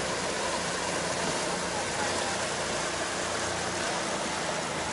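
A boat motor running steadily under a constant rush of river water.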